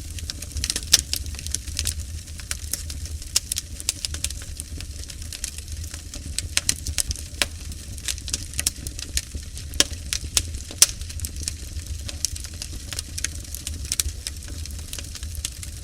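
Dimplex electric fireplace playing its built-in wood-fire sound: irregular crackles and pops like burning logs, over a steady low hum.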